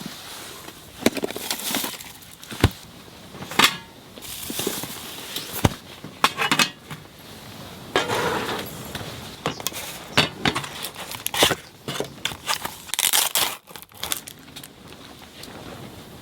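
Things being handled by hand: irregular crinkling and rustling with sharp clicks and light clinks, like packaging being opened and tableware set down.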